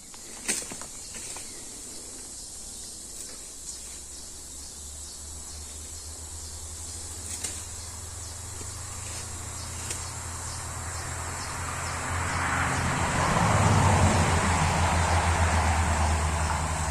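A motor vehicle's engine running nearby, growing louder to a peak about two thirds of the way in and easing off near the end, over steady high-pitched insect buzzing.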